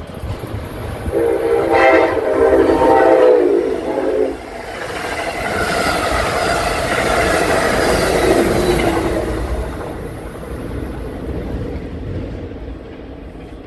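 Amtrak train's horn sounding one chord blast of about three seconds, followed by the train passing with the rush and clatter of its wheels on the rails, swelling and then fading away.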